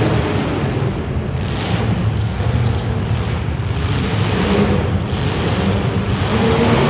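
Demolition derby cars' engines running and revving together in a loud, steady drone.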